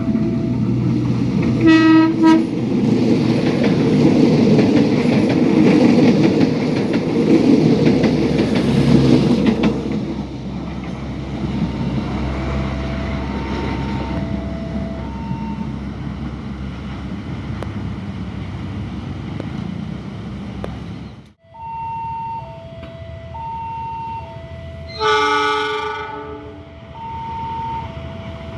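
A train rumbling past over the level crossing for about the first ten seconds, with a short train horn blast about two seconds in. After it passes, the crossing's warning alarm alternates between two tones, and a second train horn blast of about a second sounds near the end.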